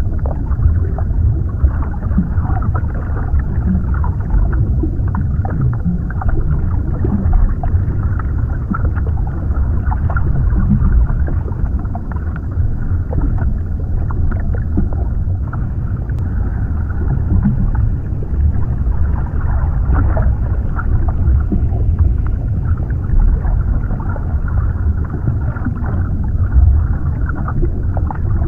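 Underwater ambience: a steady, muffled low rumble with small bubbling pops and crackles scattered through it, and nothing high-pitched.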